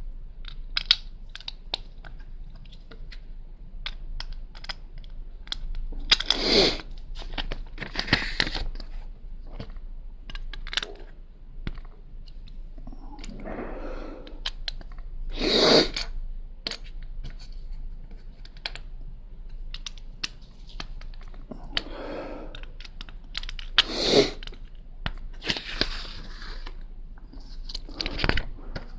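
Small plastic Lego pieces being handled and snapped together, making many small clicks, with several louder bursts of plastic rustling and rattling.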